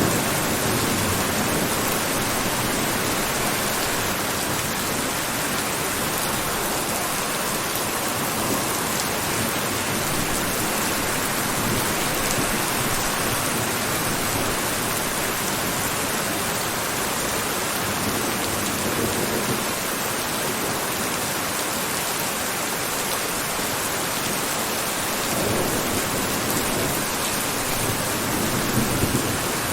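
Steady heavy rain falling, an even hiss with a few slight swells in the lower rumble.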